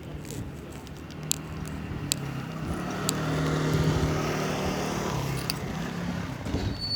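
A road vehicle's engine passing by, growing louder to a peak about four seconds in and then fading, with a few sharp clicks along the way.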